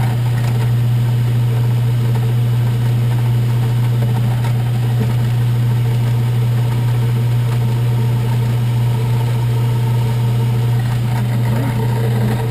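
Electric shop-machine motor running steadily with a strong, even low hum, switched off near the end.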